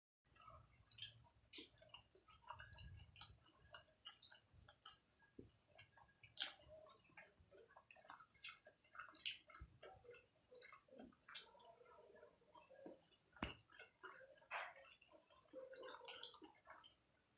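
Close-miked eating sounds: momo dumplings being chewed, with many small wet clicks and smacks scattered irregularly. A faint steady high whine runs underneath.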